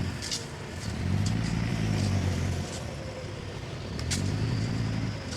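Heavy diesel engine of earth-moving machinery running, its rumble swelling twice under load and easing off between, with a few sharp metallic knocks, the loudest about four seconds in.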